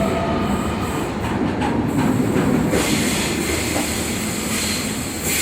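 Sydney Trains electric suburban train running on the rails. A rising motor whine fades out about half a second in, leaving rumble with clicks of the wheels, and a hiss swells about three seconds in.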